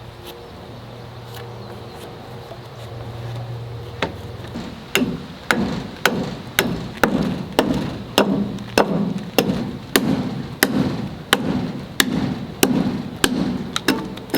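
Hatchet chopping a notch into a wooden board: sharp, evenly spaced strikes at about two a second, starting about four seconds in. A low steady hum comes before the chopping begins.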